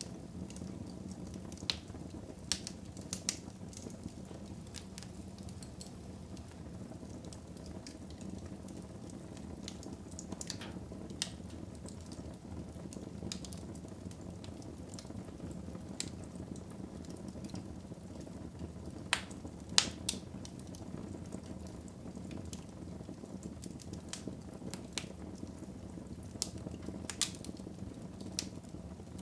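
Wood fire burning in a fireplace: a steady low rush of flames with scattered sharp crackles and pops, including two louder pops about two-thirds of the way through.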